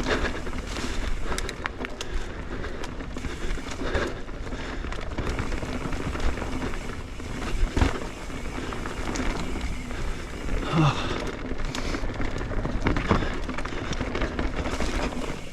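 Mountain bike rolling over a rough, rocky trail: steady tyre noise on dirt and rock with rattling from the bike and several sharp knocks as it hits rocks and roots.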